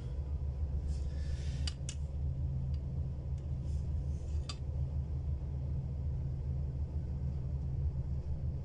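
Steady low rumble of a passenger train running along the line, heard from inside the carriage, with a few short clicks in the first half.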